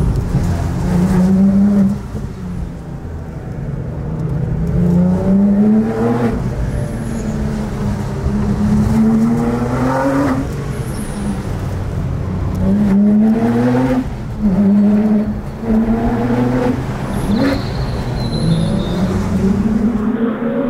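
Porsche 997 GT3 RS's naturally aspirated flat-six engine being driven hard, its note climbing in pitch again and again and dropping back each time as the car accelerates, shifts and lifts off.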